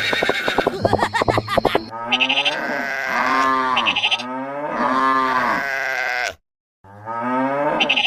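A rapid clattering for about two seconds, then a run of bleating animal calls, each arching up and falling in pitch. They break off briefly after about six seconds and start again.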